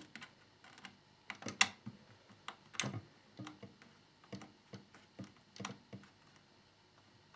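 Irregular light clicks and taps of small plastic model parts and screws being handled and fitted together, the loudest about one and a half and three seconds in.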